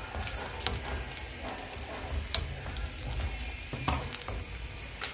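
Spiced mixture sizzling in an aluminium kadai on a gas burner as a wooden spatula stirs it, with scattered sharp clicks and pops throughout.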